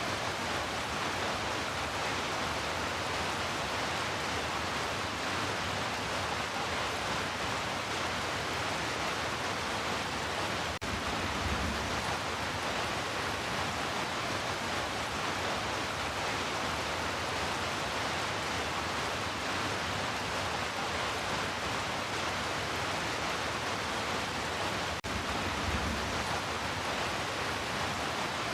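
Steady heavy rain, an even unbroken hiss. A brief low swell comes about 11 seconds in and again near the end.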